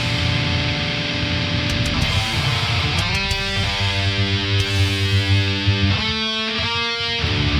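Distorted Aristides electric guitar playing a heavy metal riff: dense low palm-muted chugging, then held chords ringing out for a few seconds about three seconds in, and the low riff returning near the end.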